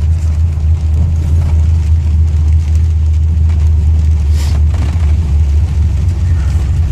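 Pickup truck's engine and exhaust droning steadily at low, even revs, heard from inside the cab while driving, with a brief hiss about four and a half seconds in.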